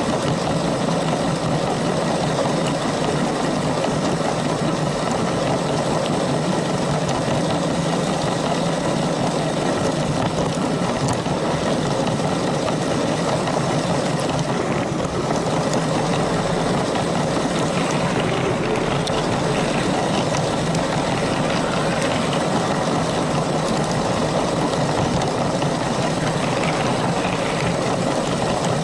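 LEGO train's small electric motor running and its wheels rolling over plastic track: a steady whirring rattle with a low hum that holds even throughout.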